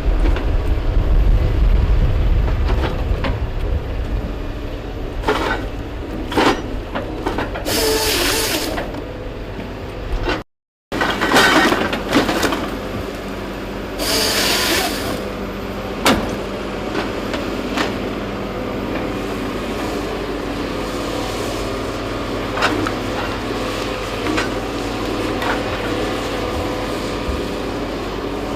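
Heavy logging machine's engine running steadily, with two short hissing bursts about a third and half way through and scattered knocks of wood and metal; the sound drops out briefly about ten seconds in.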